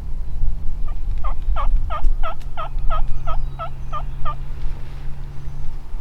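A run of about eleven turkey yelps, roughly three a second, starting just over a second in and stopping a little past four seconds, over a steady low rumble.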